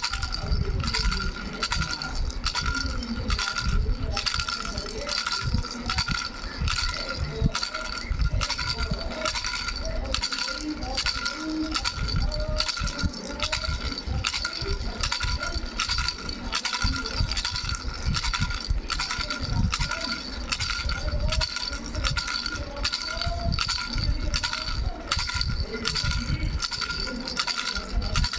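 Baby's bell rattle shaken continuously: a constant jingle of small bells ringing over the clatter of the shaking.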